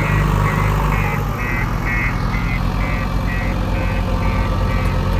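Heavy diesel engine of earthmoving machinery running steadily, with a high beep repeating about twice a second over it.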